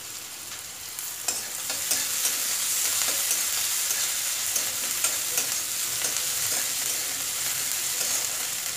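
Onions and ginger-garlic paste sizzling in hot oil in a metal kadhai, the sizzle growing louder about a second or two in. A spatula scrapes and knocks against the pan as the mixture is stirred.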